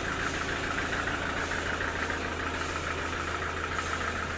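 Engine idling steadily with a rapid, even pulsing beat.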